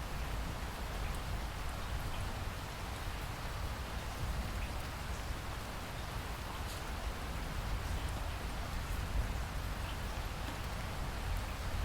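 Steady rainstorm: an even hiss of falling rain with scattered sharp drop ticks and a low rumble underneath.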